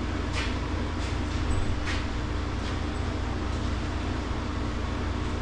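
Steady low hum of a walk-in meat cooler's refrigeration unit, with a few faint brief knocks over it.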